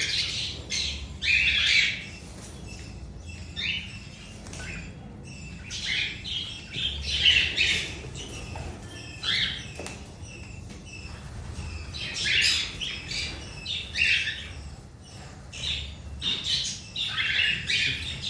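Many birds squawking and chirping in short, shrill, overlapping calls, with no pause.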